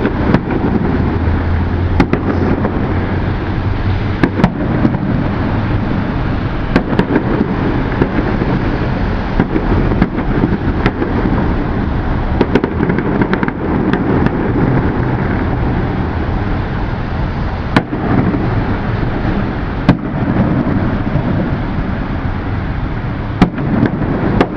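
Fireworks going off in quick succession: a continuous low rumble of booms with many sharp cracks scattered throughout.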